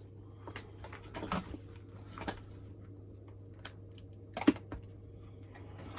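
Small clicks and knocks from handling the parts of a disassembled hairdryer, with one sharp, louder click about four and a half seconds in, over a faint steady hum.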